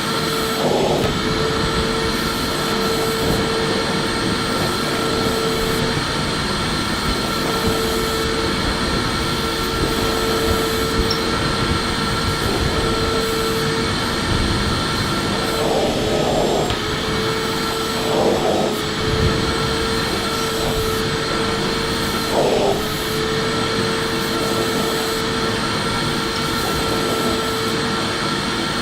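Electric vacuum cleaner running steadily: a constant rush of air over its motor's hum and a thin high whine. The hum briefly wavers in pitch a few times, about a second in and again near the middle.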